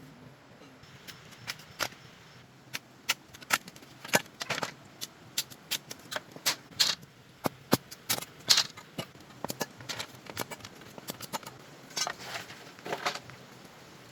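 An irregular series of sharp knocks and taps, a few to several a second, some in quick clusters, from about a second in until shortly before the end.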